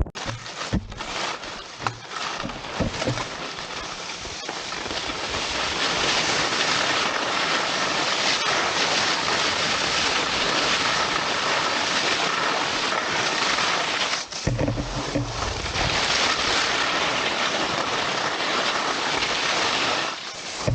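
Skis sliding and scraping over hard snow in a steady hiss, with a few knocks in the first seconds and a short low rumble about two-thirds of the way through.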